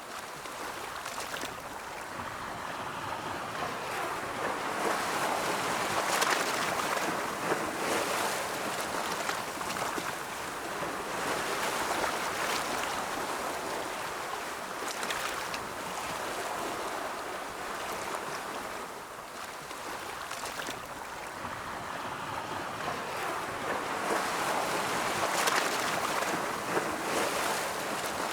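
Ocean waves breaking and washing up the shore in slow, rolling swells that rise and fall every few seconds.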